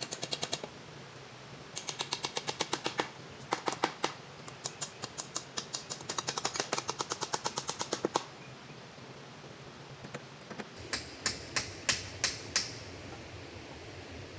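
Runs of rapid, sharp taps or knocks, about ten a second, broken by short pauses, followed after a gap by about six slower, separate strikes.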